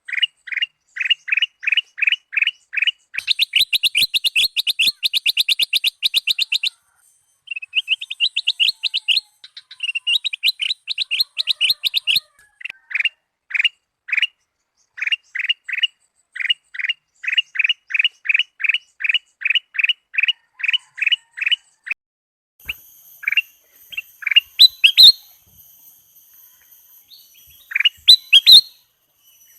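Kutilang emas bulbul singing: series of short, clear whistled notes repeated about three or four a second, broken by a fast rapid-fire trill a few seconds in and by chattering phrases. Near the end the song thins to a few sharper, louder calls over a faint high steady hiss.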